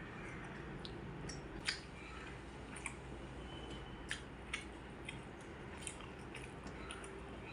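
Close-miked chewing and wet mouth sounds of a person eating rice and curry, with about half a dozen short, sharp smacks or clicks scattered through, over a steady low background hum.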